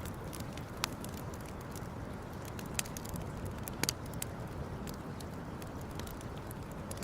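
Wood campfire crackling: scattered sharp pops and snaps, a few louder ones about a second, three seconds and four seconds in, over a steady low background rush.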